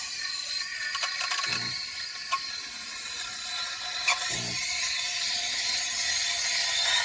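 Espresso machine running: a steady mechanical hiss and rattle, with a few soft knocks.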